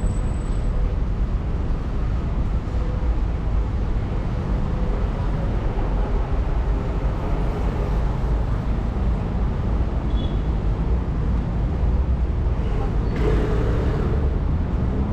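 Steady rumble of road traffic on a busy city street, with a short louder rush of noise near the end.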